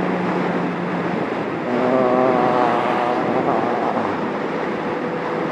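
Yamaha XJ750 Seca's air-cooled inline-four engine running at road speed under heavy wind and road noise. Its pitched note comes up more strongly for about a second and a half, about two seconds in.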